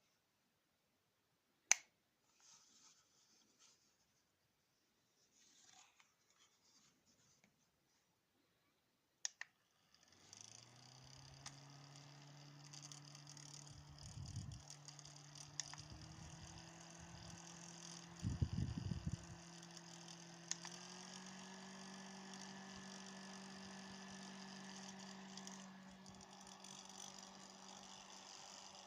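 Rechargeable mini fan handled with a few button clicks, then switched on: its small motor hums and the blades hiss steadily. Two further clicks each step the hum up in pitch as the power button cycles the fan to its higher speeds. Low rumbles twice in between, like air buffeting the microphone.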